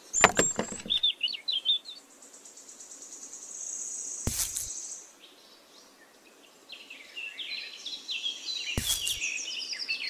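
Small birds chirping in short, high calls, with a steady high trill in the middle. A few sharp knocks cut through: a cluster at the very start, then single ones about four and about nine seconds in.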